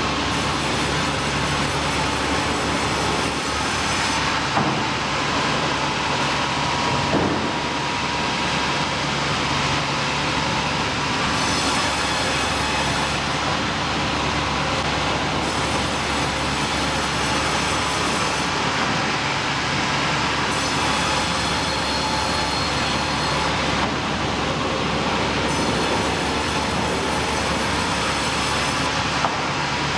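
Sawmill machinery running: a loud, steady mechanical din, with a high hiss that comes and goes every few seconds.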